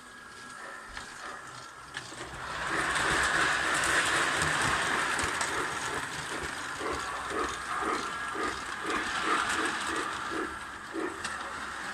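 Hornby O gauge tinplate model locomotive running along its track with a steady whirring mechanism noise that swells up about two seconds in. In the second half a regular clicking comes in, about twice a second.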